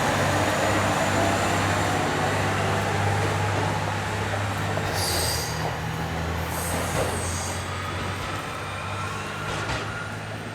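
ET122-series diesel railcar pulling away, its engine running with tones that rise gently as it accelerates. Brief high wheel squeals come about five and seven seconds in, and the sound fades as the train draws off.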